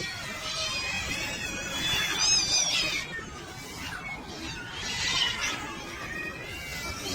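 A small animal's high-pitched squealing cries: several short, wavering calls, the loudest about two seconds in and again near five seconds.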